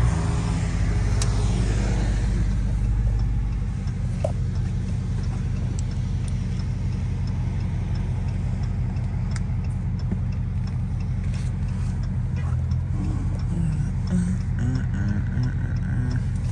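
Supercharged 6.2-litre HEMI V8 of a Dodge Charger SRT Hellcat heard from inside the cabin, a low steady rumble as the car rolls slowly and then idles at a stop, a little louder in the first few seconds. A few faint clicks sound now and then.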